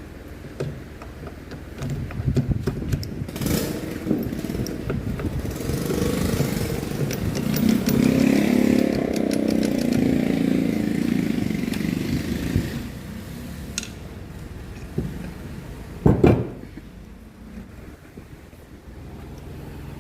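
A motorcycle engine running, growing louder toward the middle and then fading away, followed about sixteen seconds in by a single sharp knock.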